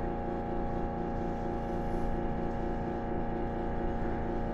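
Steady hum of a train in motion heard from inside the carriage, several fixed tones holding their pitch without change.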